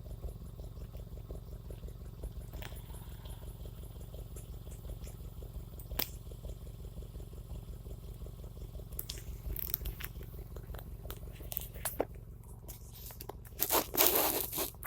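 Subaru Forester SG's boxer engine idling through unequal-length headers, a steady low pulsing exhaust rumble. A few light clicks, and a louder burst of noise near the end.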